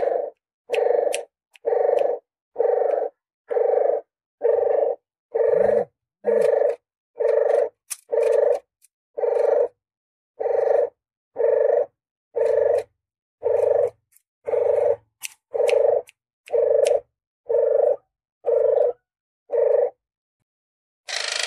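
Puter geni dove, a domestic ringneck (puter) dove, cooing in a steady series of about twenty short, low coos, roughly one a second: a dove lure call. Near the end a harsh, hissing noise starts.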